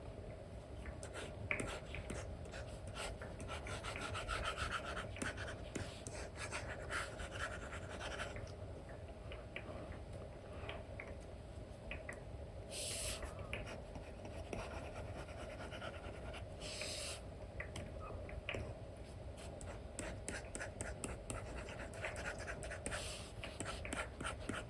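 Apple Pencil with an Elecom nib scratching and tapping across a paper-like film on an iPad screen in irregular short strokes, with two longer strokes about halfway through and two-thirds of the way in.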